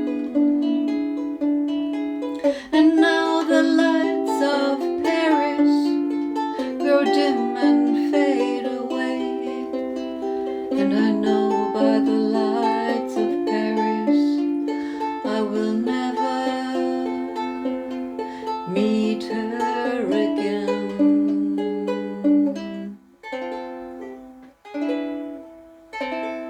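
Ukulele playing the instrumental close of the song as a melody of plucked notes. Near the end it slows to a few separate strummed chords that ring out and fade.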